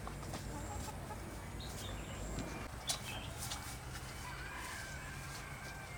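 Chickens clucking, with a few sharp clicks scattered through, the loudest about halfway, over a low steady hum.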